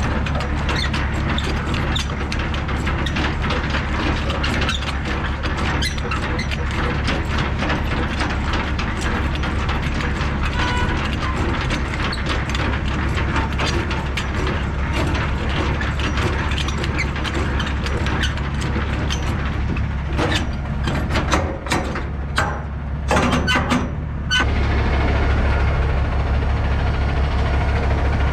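Semi-trailer landing gear being hand-cranked: a fast, continuous clicking and ratcheting from the crank gearbox over the low hum of the truck's idling engine. The cranking breaks into a few separate knocks about three quarters of the way through, and then the engine hum gets louder.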